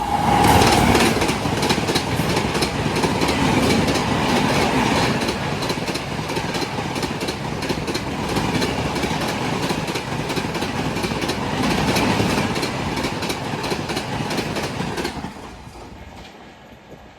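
A through train running past at speed, its wheels clattering rapidly over the rail joints. The sound falls away sharply about fifteen seconds in as the last coach passes.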